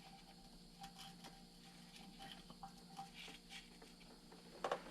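Faint, scattered small clicks and rustling from test leads and clips being handled, with a sharper click near the end.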